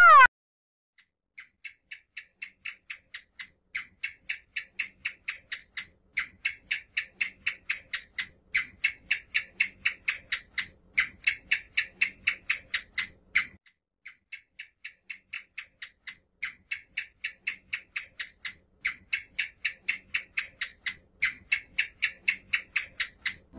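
Mouse squeaking: a long run of short, high squeaks, about four a second, with a brief break about halfway through. It opens on the cut-off tail of a louder pitched animal call.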